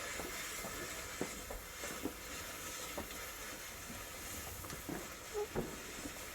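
Firework hissing steadily, with scattered small crackles and pops, faint against the garden.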